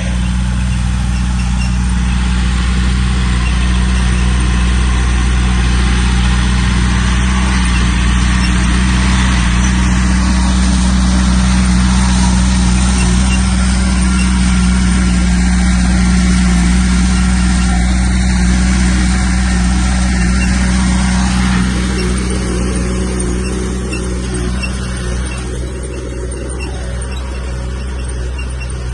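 Heavy earthmoving equipment's diesel engine running steadily under load, easing off a little about two-thirds of the way through.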